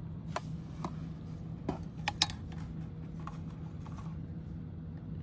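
A handful of light clicks and taps, with one sharper click a little after two seconds in, over a steady low hum.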